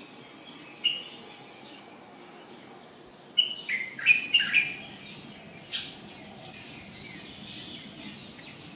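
Small birds chirping: a single chirp about a second in, then a quick run of short, falling chirps around the middle, over a steady low background noise.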